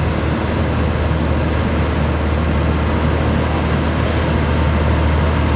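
A heavy truck's diesel engine running with a steady low drone under a constant wash of road noise.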